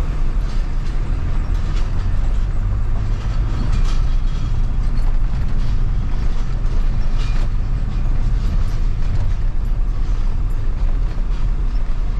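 Old pickup truck driving slowly, heard from inside the cab: a steady low engine and road rumble with loose body and cab rattles and clicks.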